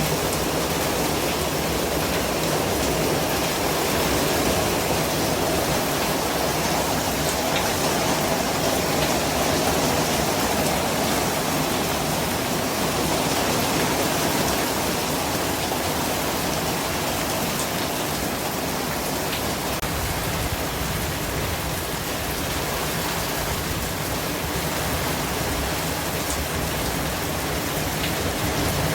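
Steady, unbroken white-noise hiss with a few faint ticks in it.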